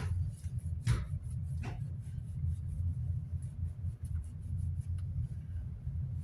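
Fan parts being handled and rubbed: light scratchy rubbing, with a couple of short knocks about a second apart near the start, over a steady low hum.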